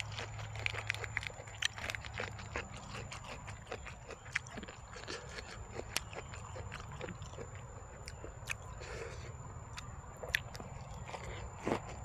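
Chewing and biting: a scatter of short crunchy clicks and wet mouth sounds as a man eats spicy jellyfish salad with fresh lettuce.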